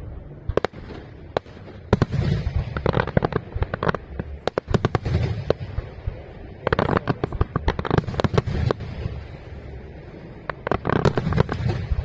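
Fireworks display: volleys of rapid, sharp bangs from bursting shells, coming in three dense clusters with a few single bangs before them.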